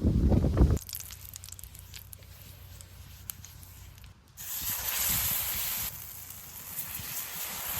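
A steady sizzling hiss starts about halfway through, typical of eggplant frying in hot oil. Before it come a short low rumble and a few faint clicks.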